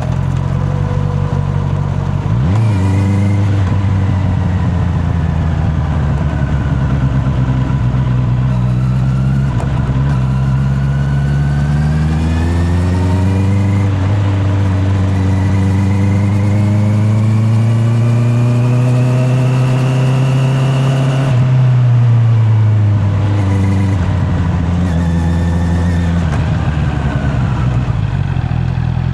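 Honda CB650R's inline-four engine running: steady and low at first, then pulling with a long rising pitch for several seconds before dropping off as the throttle closes, with a few short blips before settling back to a steady low running near the end.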